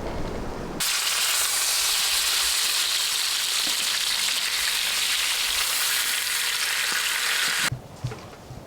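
Food sizzling loudly in a hot pan, an even hiss that cuts in suddenly about a second in and cuts off abruptly near the end. Before it, a brief low rumble of wind.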